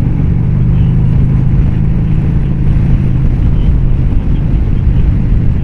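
Harley-Davidson Glide's V-twin engine running steadily under way, a low even drone.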